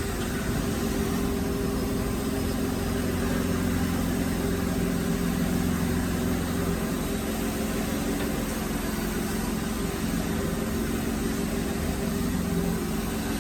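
Steady hum of running workshop machinery, a few even low tones that hold without change.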